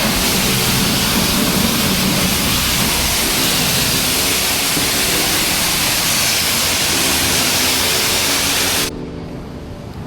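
High-pressure wash wand at a self-serve car wash spraying water: a loud, steady hiss that cuts off suddenly near the end.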